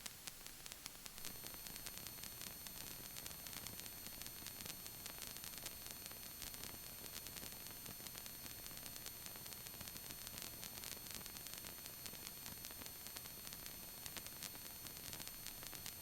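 Faint steady electronic hiss with a few thin high-pitched whines: line noise from the cockpit radio/intercom audio feed with no one transmitting or talking.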